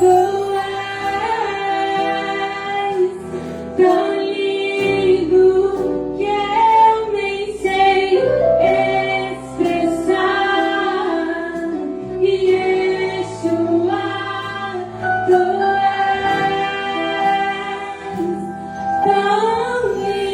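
Orchestra of strings and winds playing a slow Christian worship song, the melody carried in long held notes over sustained accompaniment.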